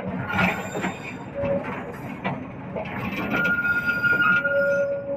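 Train wheels rolling on the rails, a steady rumble with scattered knocks. About three seconds in, a thin high squeal from the wheels sets in and holds, and a lower squeal joins it near the end.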